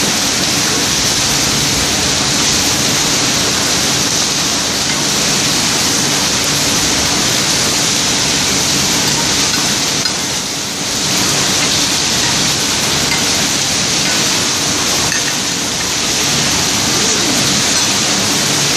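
Heavy rain pouring, a loud, even hiss that dips briefly about ten seconds in.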